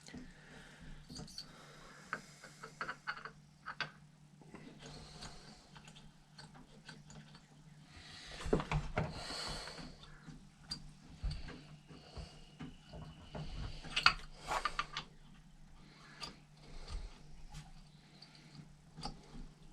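Scattered light clicks, taps and scrapes of small motorcycle carburetor parts being handled and fitted by hand, with a sharper click about fourteen seconds in. A steady low hum runs underneath.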